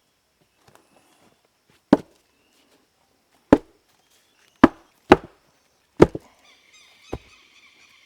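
Six sharp blows striking wood, unevenly spaced.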